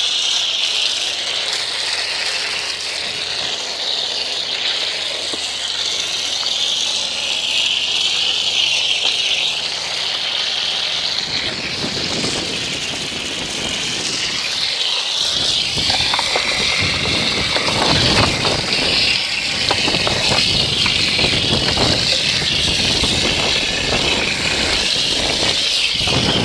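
Garden hose spray nozzle rinsing mud and soap off a dirt bike: a steady, loud hiss of spray. About 11 seconds in the spray turns coarser and more spattering as the jet hits the bike's surfaces at close range.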